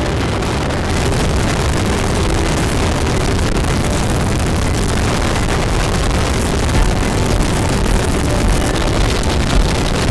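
BMW motorcycle riding at speed: wind rushing and buffeting over the microphone, with the engine running underneath. The buffeting grows gustier in the last few seconds.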